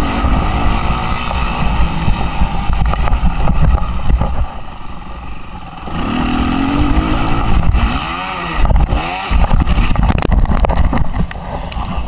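Suzuki RM-Z 250 four-stroke single-cylinder motocross engine revving hard under throttle, with wind rumbling on the microphone. The revs drop away about four and a half seconds in, build again near six seconds, and swing up and down twice around eight to nine seconds; a quick run of knocks comes near the end.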